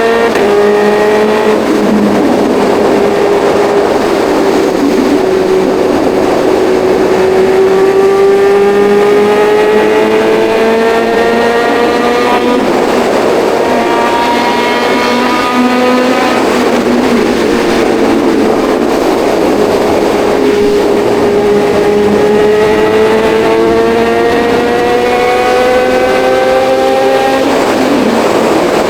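Kawasaki Ninja 1100SX inline-four engine pulling under way, its pitch climbing slowly for several seconds at a time and dropping back at each shift or roll-off, three or four times, over steady road and wind noise.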